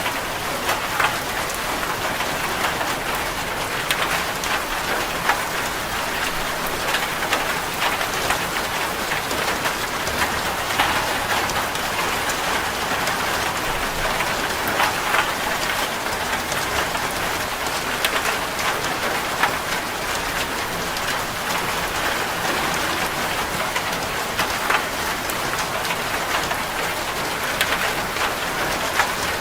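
Steady rain drumming on a corrugated zinc metal roof, a dense even patter with many sharp individual drop hits.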